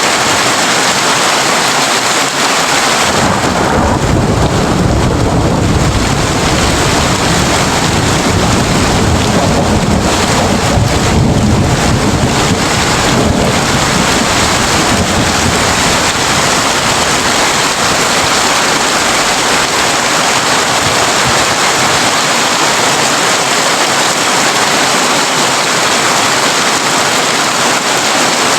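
Heavy rain falling steadily on a tin roof. A long, low rumble of thunder builds from about three seconds in and dies away around fifteen seconds.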